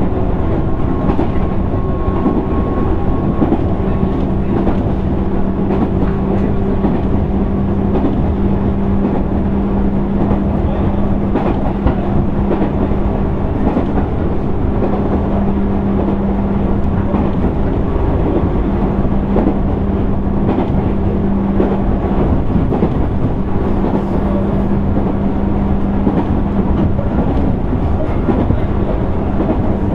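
JR 205 series electric train running at speed, heard inside motor car MoHa 204-604: a steady rumble of wheels on rail. A steady hum from the running gear sets in about four seconds in.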